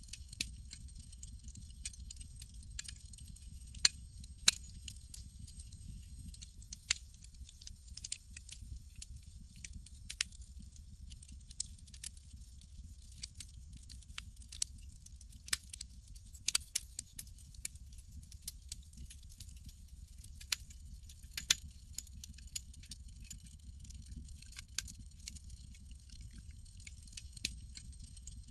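Campfire crackling: irregular sharp pops and snaps, a few louder ones standing out, over a steady low rumble of the fire.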